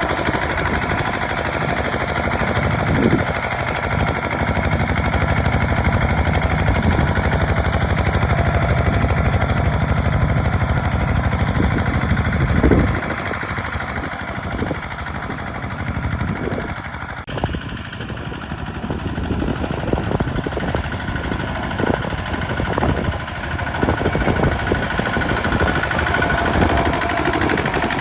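Single-cylinder Kubota RT diesel engine of a two-wheel hand tractor running while plowing, a fast, steady chugging beat; it eases off a little about halfway through and changes character soon after.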